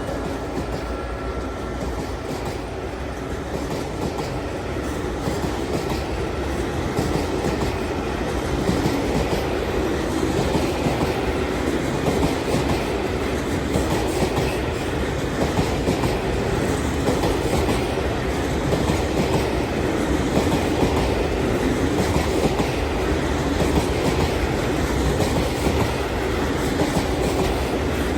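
Loaded timber wagons of a long diesel-hauled freight train rolling past, a steady rumble with the wheels clattering over the rails, growing a little louder about a third of the way in.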